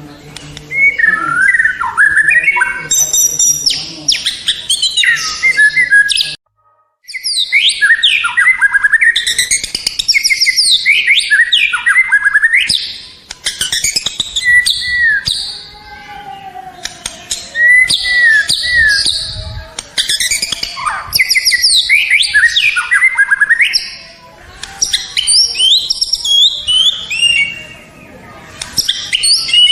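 White-rumped shama (murai batu) singing a loud, varied song of rapid whistles, trills and chirps, with a brief gap about six seconds in.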